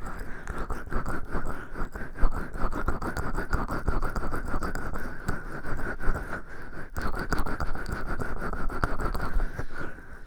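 Oiled hands rubbing close to a binaural microphone in an oil massage, a continuous wet crackling that eases briefly near the end.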